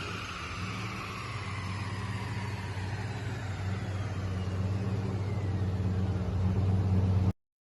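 Turbocharged LS3 V8 idling after a pull, with a high whine sliding slowly down in pitch as it spins down. The sound cuts off abruptly near the end.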